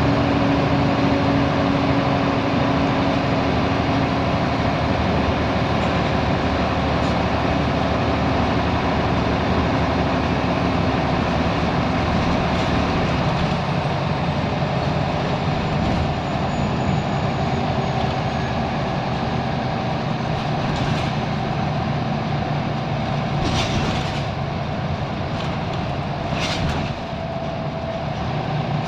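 Scania L94UB Wright Solar bus's diesel engine running under way, heard from inside the bus over steady road noise. The engine note drops lower through the middle, and a few sharp rattles or clacks come near the end.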